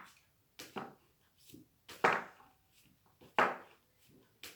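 A woman's voice saying single isolated phonics sounds one after another in a quick drill, each a short, clipped sound about every second.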